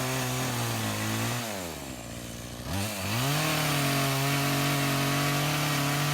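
Two-stroke chainsaw running at high revs, dropping back to idle about a second and a half in, then throttled up again about three seconds in and held steady.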